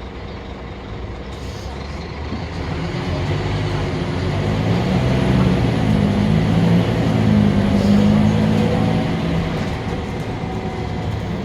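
Scania K310UB city bus engine running under power, growing louder until about eight seconds in and then easing off, with a faint high whine over the louder middle part.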